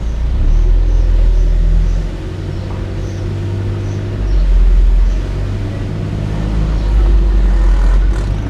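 A car being driven: a steady low engine and road rumble that swells and eases every couple of seconds.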